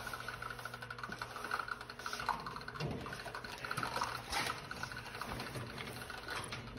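Water trickling and splashing in a turtle tank, steady and fairly quiet, over a faint low hum, with a few small knocks.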